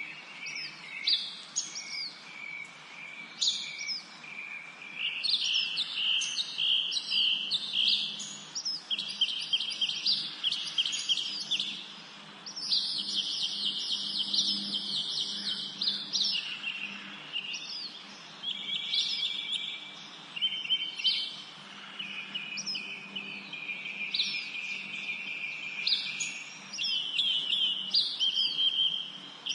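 Several songbirds singing in a forest: overlapping chirps and fast, rapid-fire trills, one high trill long and continuous for a few seconds near the middle, over a faint low hum.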